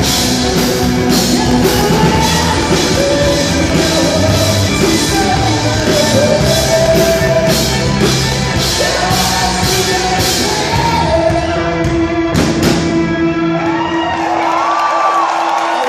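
Live rock band playing with singing, the drums keeping a steady beat. About twelve seconds in the drums stop and a held chord rings under wavering, sliding vocal lines as the song comes to its end.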